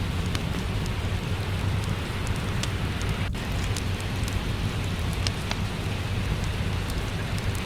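Steady rain with a low rumble under it, and scattered small sharp crackles from a wood fire in a fireplace.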